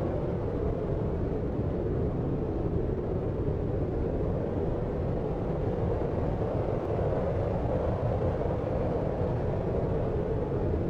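Steady, deep, low-pitched noise with most of its weight in the bass, an even rumbling hiss with no separate events, as used for a sleep-aid noise track.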